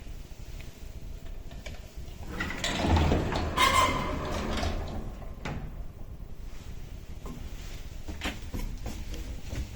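Doors and machinery of a 1978 MOELZ passenger lift, rattling and sliding for about three seconds starting about two seconds in. A low steady hum follows, then a few light clicks near the end.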